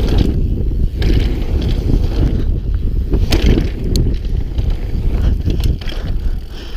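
Wind buffeting a helmet-mounted action camera's microphone as a mountain bike rolls over a rough trail, with a steady low rumble and a few sharp clicks and knocks from the bike.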